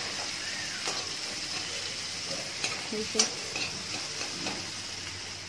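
Chopped onions sizzling in hot oil in a steel kadhai, stirred with a metal slotted spatula; a steady sizzle with a few sharp clicks of the spatula against the pan.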